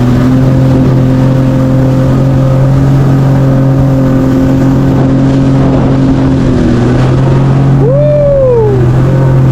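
Jet ski engine running steadily at a constant speed. Near the end a brief tone rises and then falls.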